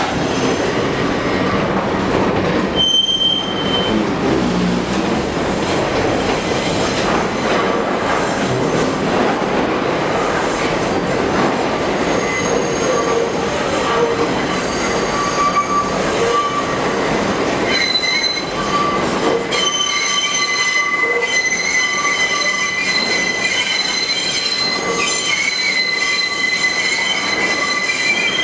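Kawasaki R62 subway cars running through the tight South Ferry loop curve, steel wheels squealing against the rails over a steady loud rumble. The squeal tones become stronger and steadier about two-thirds of the way through.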